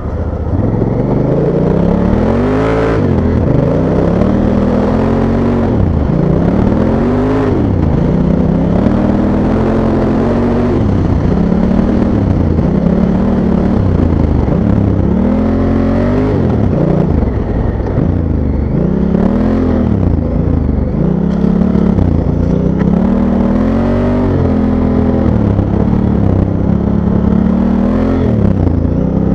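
Honda CRF1000L Africa Twin's parallel-twin engine revving up and down while the bike is ridden through sand, the pitch rising and falling about every two seconds as the throttle is opened and rolled off.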